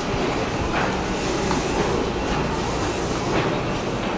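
Steady running hum of an Odakyu commuter train standing at the platform, with faint scattered clicks.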